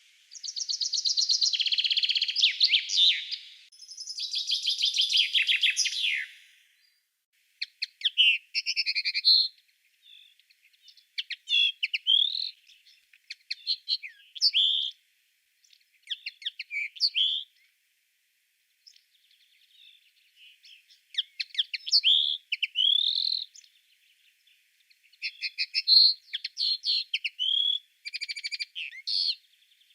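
Songbirds of a May woodland singing: two long, fast trills of rapidly repeated notes in the first six seconds, then a run of short, varied whistled phrases that glide up and down, with brief pauses between them.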